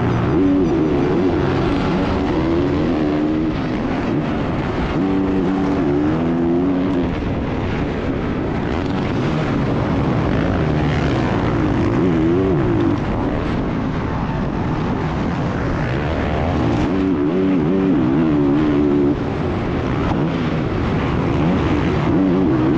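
Dirt bike engine revving hard. Its pitch repeatedly climbs and drops as the throttle is opened and backed off, over a steady rush of noise.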